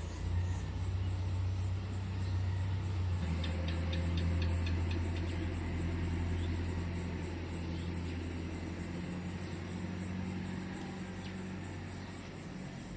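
Insects trilling high and steady over a constant low rumble, with a quick run of clicks a few seconds in.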